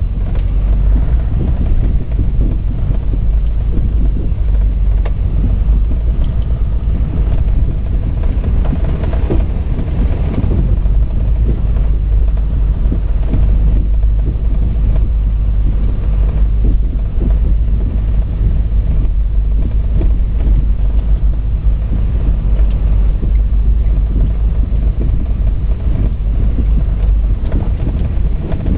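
Vehicle driving along a lane: a steady low engine and road rumble with frequent small knocks and rattles.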